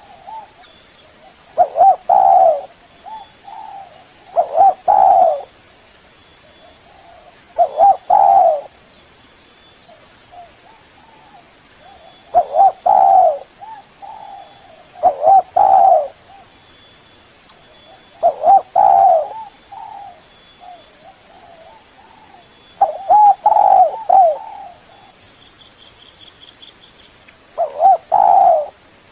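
Spotted dove cooing: a multi-note coo phrase repeated about eight times, every few seconds, played as a lure call to draw rival doves.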